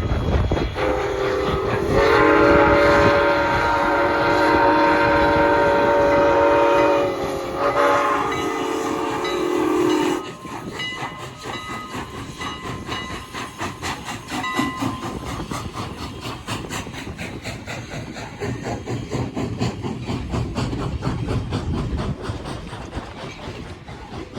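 A train sounds a multi-note chime horn or whistle for about nine seconds, with a brief break near the end. It then cuts off, leaving the rapid, steady clickety-clack of wheels rolling over rail joints as the train passes.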